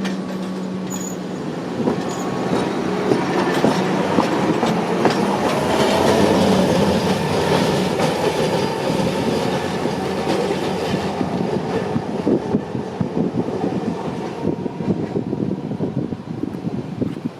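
Street tram passing on its rails. A low hum and wheel-on-rail noise build to a peak about six seconds in, then fade into a rapid rattle of clicks from the wheels over the track.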